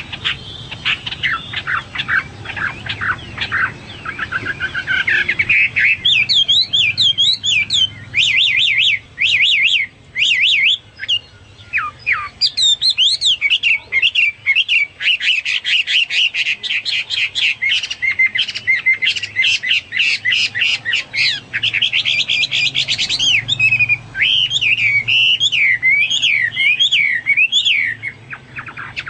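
Chinese hwamei (melodious laughingthrush) singing at length: a loud, varied song of fast trills of repeated notes and swooping, up-and-down warbled phrases, with a couple of brief pauses.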